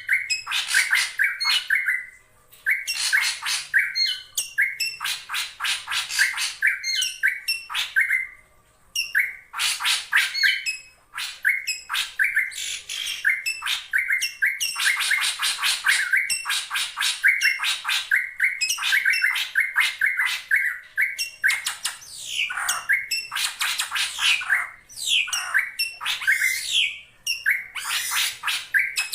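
Drongo calling almost without a break: rapid runs of short notes and quick pitch slurs, with brief pauses about two, eight and eleven seconds in. It is a lure call of the kind used to draw rival drongos.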